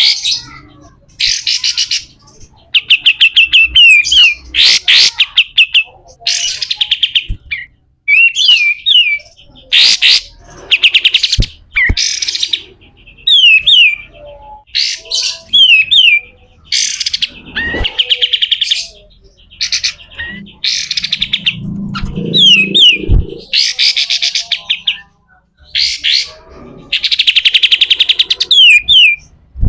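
Kapas tembak singing in harsh, buzzy bursts (the rasping 'besetan' call), each a rapid rattle, alternating with short downward-slurred whistles; the phrases repeat every second or two.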